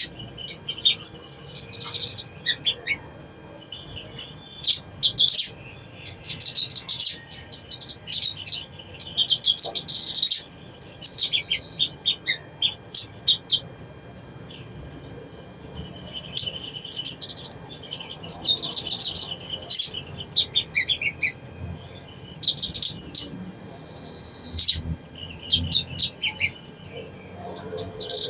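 Crimson sunbird (sogon) singing in rapid, high-pitched twittering phrases that follow one another with short pauses, with one longer lull about halfway through.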